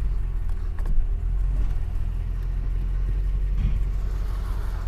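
Muffler-deleted exhaust of a 1980 Mercedes-Benz 500 SE's V8, running with a steady low rumble and no revving, with one brief knock about a second in.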